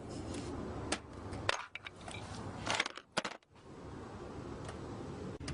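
Wrench and socket clicking and clinking on metal as the alternator's 15 mm mounting bolts are broken loose: a handful of sharp knocks and clanks about one, one and a half and three seconds in.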